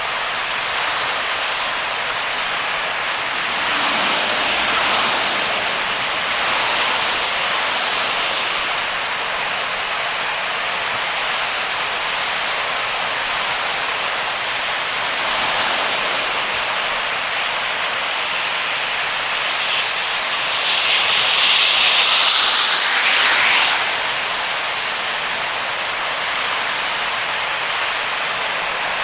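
Heavy rain and tyres hissing on a waterlogged expressway while driving, a steady wash of spray noise that swells now and then, loudest for a few seconds about three quarters of the way through.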